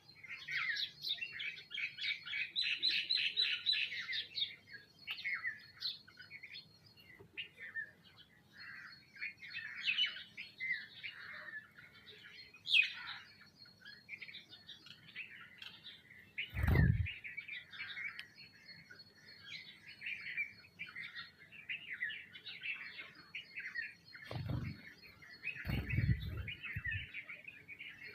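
A group of small birds, sparrows and mynas, chirping and chattering continuously while feeding. Three dull low thuds break in, one about midway and two close together near the end.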